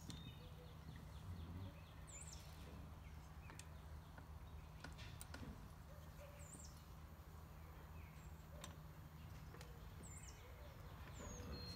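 Faint outdoor ambience: a bird repeats a short, high whistled call about every four seconds, with a few faint clicks over a low steady hum.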